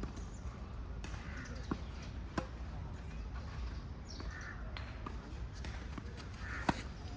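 Tennis ball being hit and bouncing on the court: a handful of sharp single pops a second or more apart, the loudest about two and a half seconds in and near the end.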